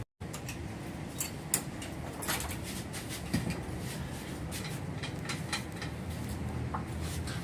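Scattered light clicks and knocks from parts being handled, over a low steady hum. There is a brief dropout right at the start.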